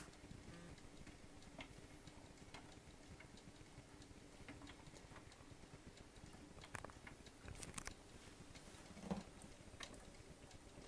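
Near silence with faint, irregular clicks and ticks and one slightly louder tick about nine seconds in: a stylus running in a record's lead-in groove on a Telefunken TW 509 turntable.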